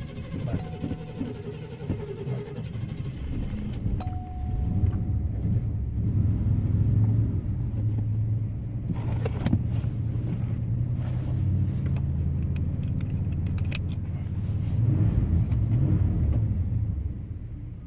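Car engine running after a hard start, a steady low hum that grows louder and shifts with the car being driven. A short electronic beep sounds near the start and again about four seconds in.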